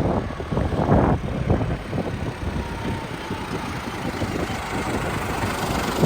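Diesel engine of heavy earth-moving machinery running steadily, with uneven surges in level.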